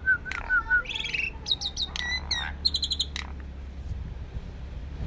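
Jalak (starling or myna) song. A run of evenly repeated whistled notes gives way to a burst of varied chirps, trills and whistles, which stops about three seconds in.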